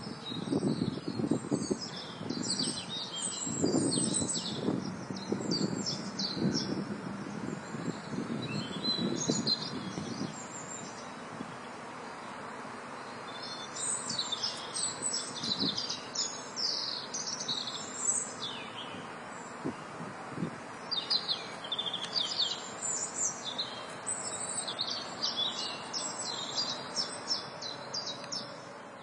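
Songbirds chirping and twittering in quick bursts of short high notes, over a steady hiss. Uneven low rumbles and thumps run under them for about the first ten seconds, and the sound fades out at the end.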